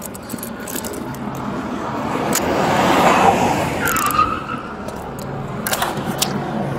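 A car passing by on the street, its tyre and engine noise swelling to a peak about three seconds in and then fading away, with a few light clicks and rattles.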